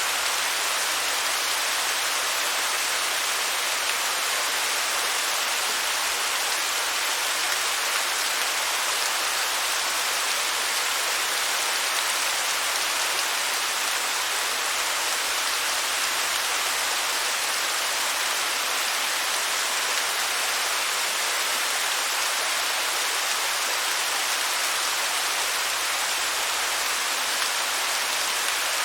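Waterfall: a steady, even rush of falling water, bright and hissy with little low rumble.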